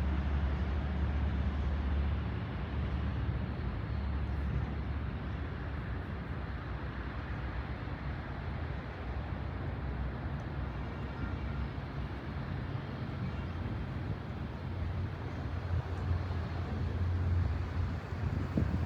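Jet airliner engines heard at the airport: a steady rumble with a hiss over it, easing after a couple of seconds and swelling again near the end.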